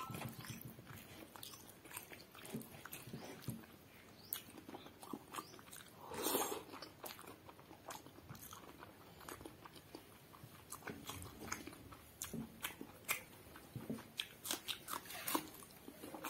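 Close-up chewing and mouth sounds of a person eating rice with his fingers: a run of short wet clicks and smacks, with a louder crunching bite about six seconds in.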